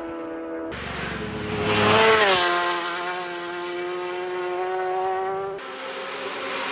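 Superbike racing motorcycles passing at racing speed on a road course. One bike's engine note rises in level and drops in pitch as it goes by about two seconds in, then a steady high engine note holds. There is an abrupt change to another bike approaching near the end.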